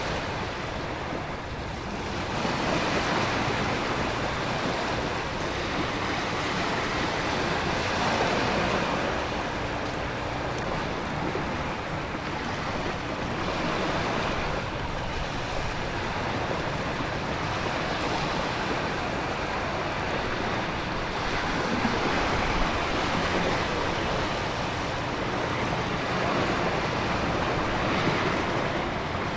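Coastal storm ambience: heavy ocean surf surging in slow swells every several seconds over a steady rush of wind and heavy rain.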